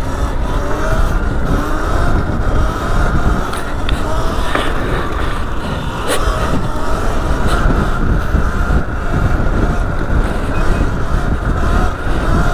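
Sur Ron Light Bee X electric dirt bike riding: a wavering motor whine under heavy wind noise on the microphone, with scattered ticks and clicks from the tyres on loose dirt.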